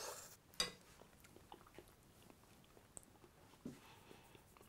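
Faint mouth sounds of a person tasting soft onion jam from a spoon and chewing it, with a few small clicks; otherwise near silence.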